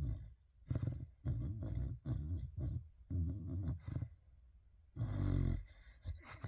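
Sleeping dog snoring: a run of about seven short, low snores, with a pause of about a second midway.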